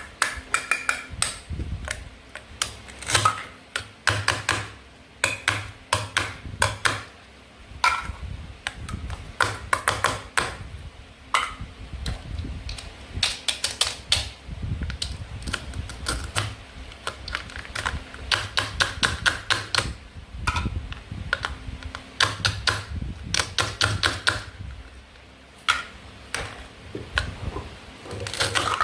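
Toy food being cut and handled: many quick, sharp clicks and clacks of a toy knife and hard toy fruit and vegetable pieces, coming in irregular clusters with short pauses.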